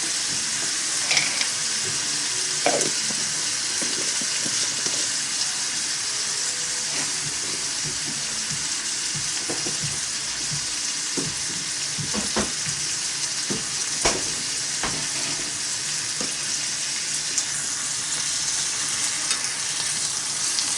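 Kimchi sizzling in a small iron pot: a steady hiss with scattered small pops and clicks.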